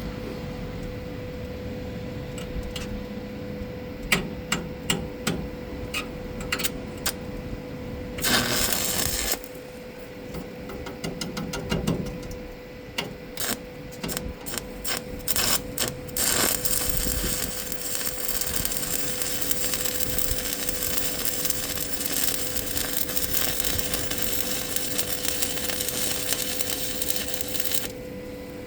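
Metal knocks and taps of slag being chipped from a stick weld, then from about 16 seconds in the continuous crackling hiss of a stick-welding arc burning, stopping just before the end.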